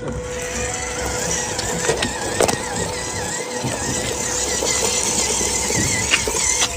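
Remote-control model Suzuki Gypsy running, its small motor giving a steady whine that wavers in pitch, with scattered clicks and knocks.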